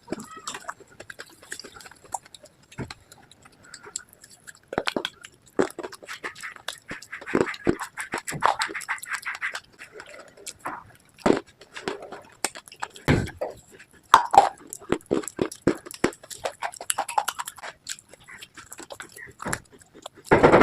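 Close-miked biting and chewing of brittle slate pieces: irregular sharp crunches and crackles.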